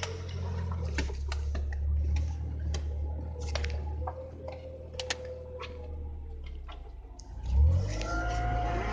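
Jeep engine running with a steady low rumble, with scattered clicks and knocks in the cab and a loud thump about seven and a half seconds in.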